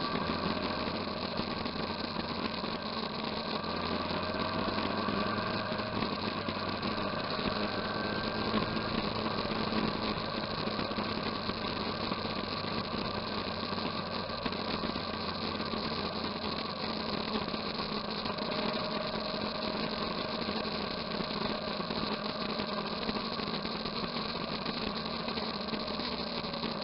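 Motorcycle engine running steadily over a constant hiss of noise, with no sudden changes.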